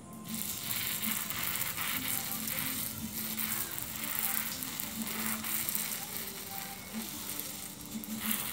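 Hand-pumped pressure sprayer hissing out a fine water spray onto a lovebird. The hiss swells and fades every second or so.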